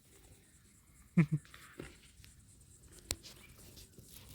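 A single short animal call falling steeply in pitch about a second in, then a sharp click near three seconds, with faint rustling between.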